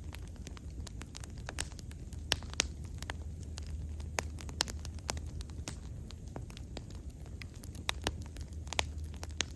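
Bonfire crackling: irregular sharp pops and snaps of burning wood, several a second, over a steady low rumble.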